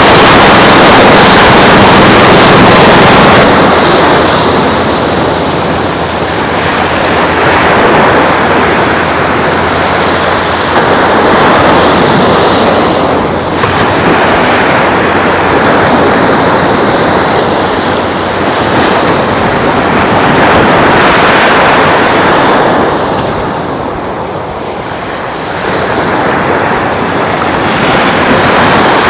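Ocean surf washing onto the beach, with wind blowing across the microphone; the rush of noise swells and eases every few seconds.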